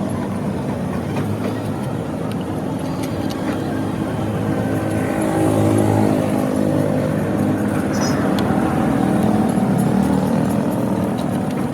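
Motorcycle engine running steadily, its pitch and loudness swelling a little now and then.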